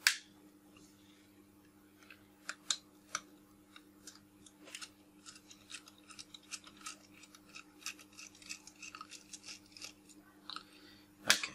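Small screwdriver backing tiny screws out of a lens barrel: a run of light clicks and scratchy ticks, with a sharp click right at the start and another near the end, over a faint steady hum.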